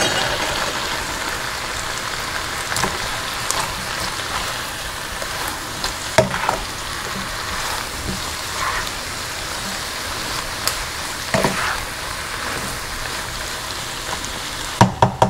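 Sliced onions and bell peppers sizzling steadily in a frying pan, with a few short knocks and scrapes of the stirring utensil against the pan.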